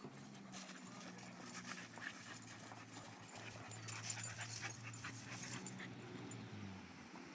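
Two dogs, a golden retriever puppy and a boxer, panting and scuffling as they play-wrestle, with quick clicks and scrapes through most of the stretch. A low steady hum runs underneath.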